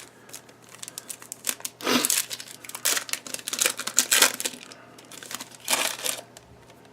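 Crinkling of a Topps Gallery baseball card pack's wrapper, with cards being handled, in several short bursts: about two seconds in, again for a second or so around the middle, and once more near the end.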